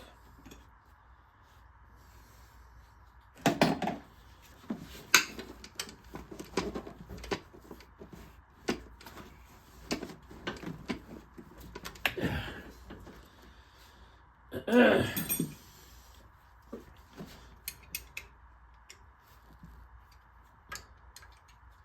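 Hand tools and metal parts clinking and knocking while working on the engine: scattered irregular clicks, with a few louder knocks spread through.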